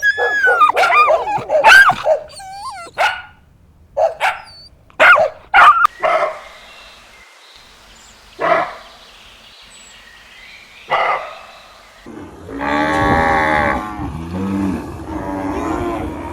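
A dog barking and yelping in a quick run of short, pitch-bending calls, then two single barks a few seconds apart. About twelve seconds in, a cow starts a long, low moo.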